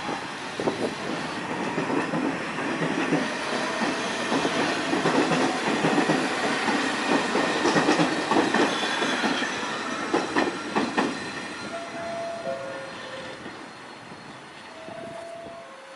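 New York City subway train passing, its wheels clattering over the rail joints; the clatter grows louder to a peak about halfway through and then fades away. A few short squeals sound near the end.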